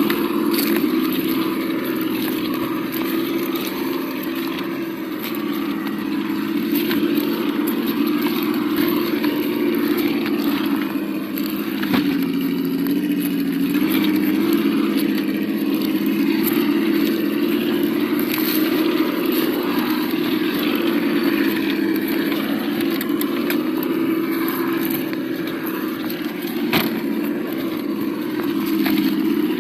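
Simulated engine sound from the sound module of an Absima Yucatan 1:8 RC crawler: a steady engine running note through a small speaker, wavering slightly in pitch, with a couple of sharp knocks, one about 12 seconds in and one near the end.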